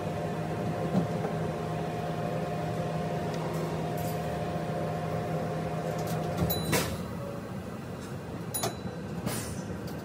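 Tsukuba Express train running, heard inside the driver's cab and sped up to double speed: a steady running hum with held tones that stops about six and a half seconds in, followed by a few sharp clicks.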